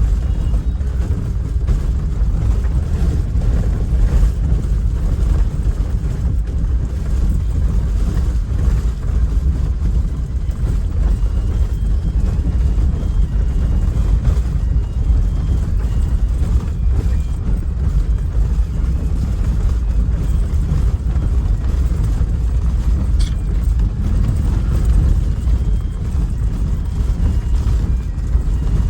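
Steady low rumble of an engine under way, holding an even level throughout.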